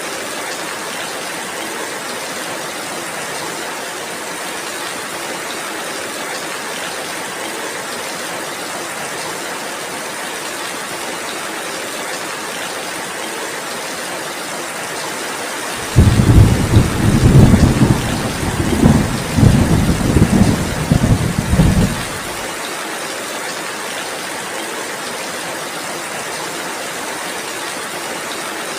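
Steady heavy rain hissing. About halfway through, a rumble of thunder lasts some six seconds, the loudest sound here, then breaks off.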